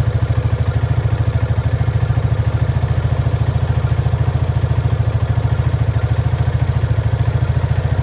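Motorcycle engine idling steadily in gear, an even pulsing beat about nine or ten times a second.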